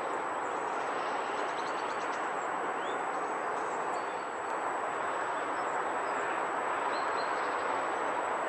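A few faint, short bird chirps over a steady background rush.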